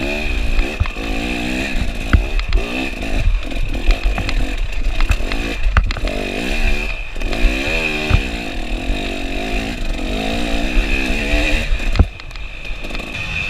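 KTM 300 two-stroke dirt bike engine revving hard up and down on the throttle while riding, with sharp knocks now and then. The engine drops off briefly after a loud knock near the end.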